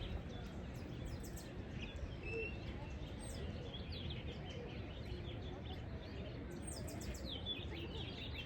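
Small birds chirping, many short quick chirps throughout, over a steady low background rumble.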